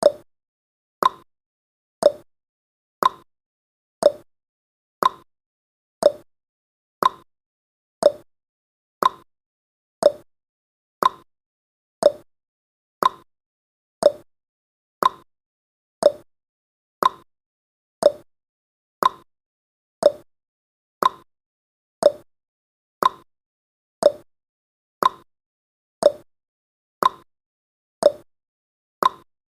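Clock-style ticking sound effect of a countdown timer: one short tick a second, alternating higher and lower like a tick-tock.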